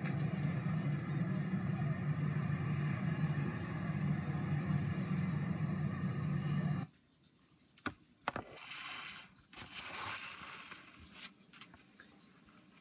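Street noise dominated by the steady low hum of vehicle engines running. About seven seconds in it cuts off abruptly, leaving a much quieter stretch with a few sharp clicks.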